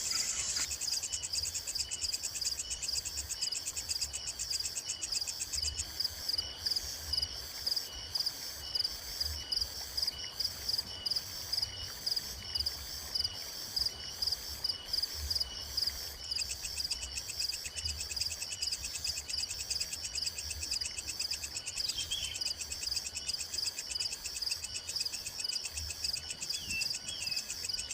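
A dense chorus of insects chirring steadily high up, with a faint repeating tone and a few short chirps. Low thumps come and go underneath.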